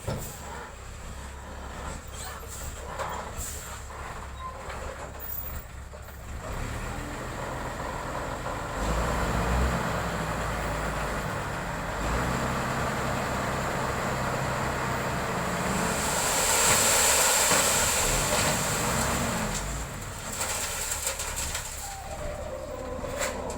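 Heavy diesel road-construction machinery running. The engine grows louder about a third of the way in, and a loud hiss lasts a few seconds about two-thirds of the way through.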